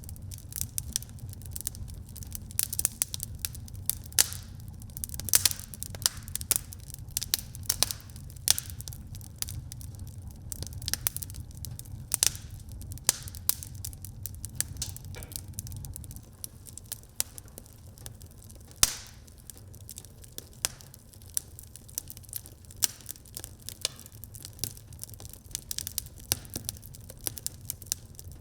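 Wood fire burning in a fireplace: irregular sharp crackles and pops over a low rumble of the flames, the rumble easing off about halfway through.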